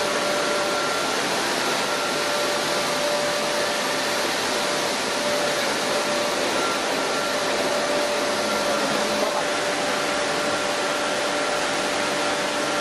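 Chili powder milling machine running steadily: an even, airy rush with a constant whine held through it.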